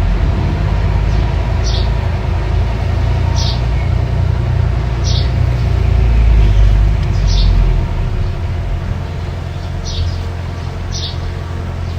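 Mini bulldozer engine running steadily with a deep rumble, easing off a little about eight seconds in. Short high chirps recur about every second and a half over it.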